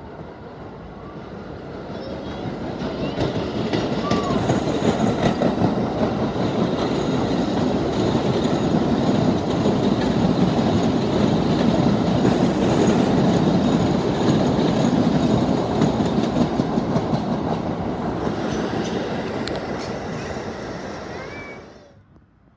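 R160B subway train passing at speed: wheel rumble with rapid clicking over the rail joints. It builds over the first few seconds, holds loud, then drops away sharply near the end.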